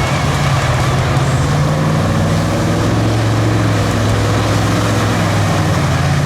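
Off-road race truck engine running steadily with a low, even note that shifts slightly in pitch partway through.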